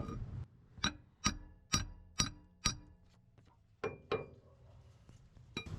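Hammer tapping a metal punch against a broken, rusted exhaust manifold bolt to loosen it in the cylinder head. There are five sharp ringing taps about half a second apart, then two more about a second later, and a last one near the end.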